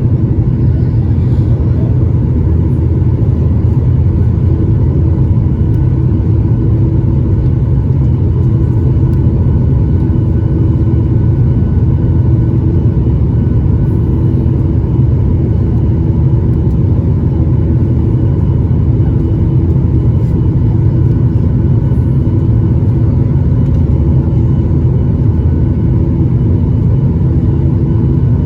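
Boeing 737-800 cabin noise: a steady, loud rumble of the CFM56 jet engines and airflow, with a faint steady hum over it.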